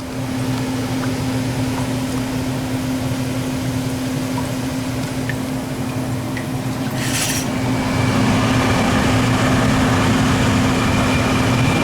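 A machine running steadily, a low hum under a rush of air, with a short hiss about seven seconds in; from about eight seconds in it grows a little louder and a faint high whine comes in.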